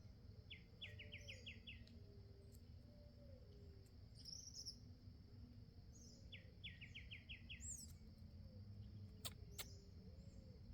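Faint backyard bird calls: a rapid series of about six short chirps, heard twice, with other scattered chirps over a low, quiet background.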